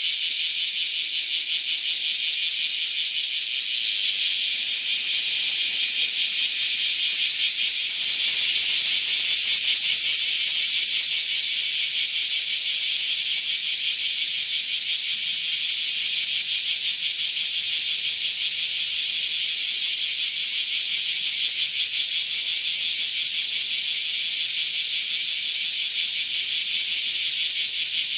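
Cicada singing: a steady, high-pitched buzz made of very rapid pulses, going on without a break.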